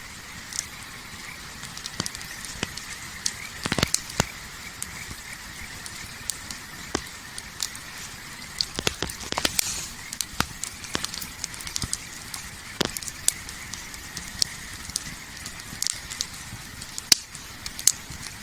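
Wood campfire crackling: irregular sharp pops and snaps over a steady hiss, with a few louder pops.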